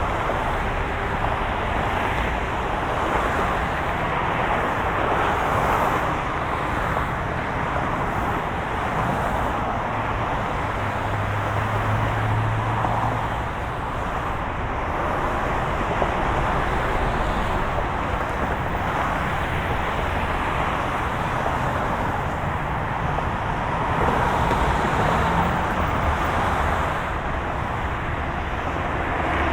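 Steady road noise of a moving car: an even rush of tyre and engine noise, with a brief low hum coming in for a couple of seconds near the middle.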